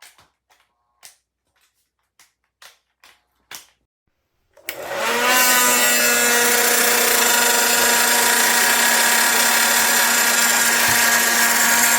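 A few light clicks and taps, then about four and a half seconds in a Hot Tools Pro Signature ionic ceramic hair dryer is switched on: its motor spins up within half a second and it runs loud and steady, a rushing blow of air over a steady hum.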